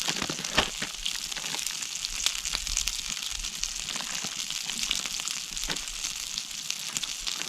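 Meat sizzling over campfire embers: a steady hiss with scattered pops and crackles.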